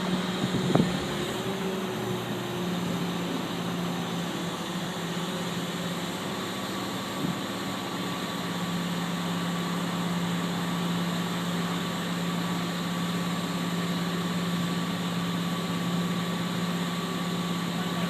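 A crane's engine running steadily with an even drone, and a brief knock about a second in.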